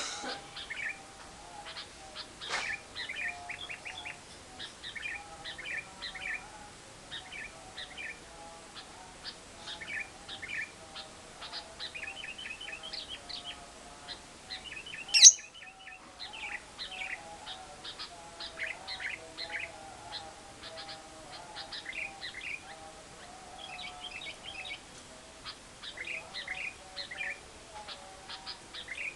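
Lovebirds chattering in rapid runs of short, high chirps, the trilling 'ngekek' of the lovebird, with one loud, sharp squawk about halfway through.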